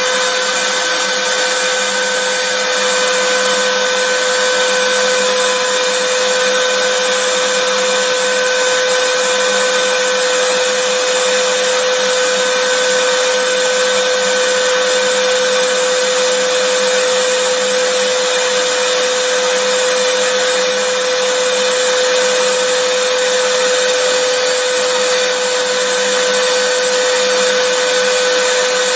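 Vacuum cleaner running at a constant speed: an even rushing hiss with a steady whine held on one pitch.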